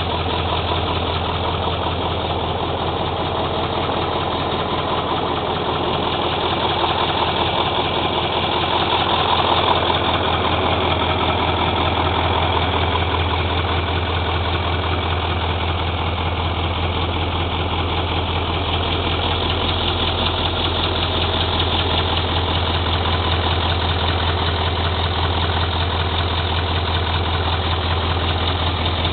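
YaMZ-7511 V8 turbodiesel of a MAZ-54328 truck idling steadily, with a slight swell in level about nine seconds in.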